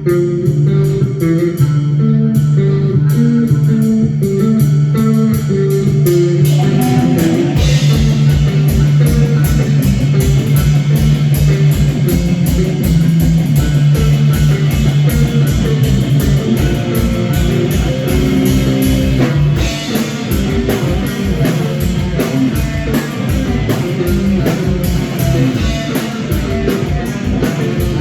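Live rock band playing an instrumental passage: guitar and bass guitar notes at first, then the drum kit comes in about seven seconds in with a steady kick-drum beat under the full band.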